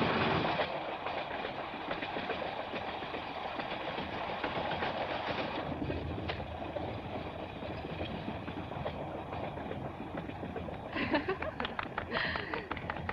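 Passenger train running on its rails, a steady rumbling clatter, with a run of sharp clacks about eleven seconds in.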